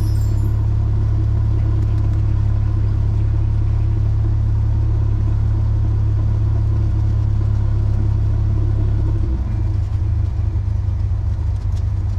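Cessna 172S's four-cylinder Lycoming engine running at low power while taxiing, a steady low drone that becomes more uneven near the end.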